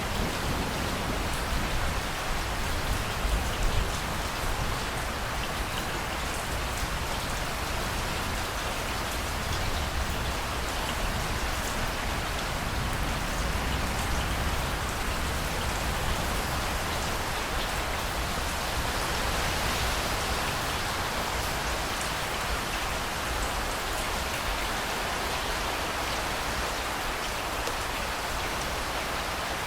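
Steady heavy rain pouring down as a dense, even hiss, with a low rumble dying away in the first few seconds.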